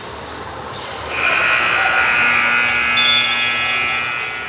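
Gym scoreboard buzzer sounding one long, steady blare of about three seconds, starting about a second in.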